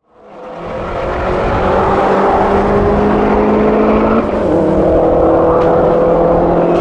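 Modified Subaru Impreza's flat-four engine running at steady, slightly raised revs, fading in from silence over the first second; its note steps a little lower about four seconds in.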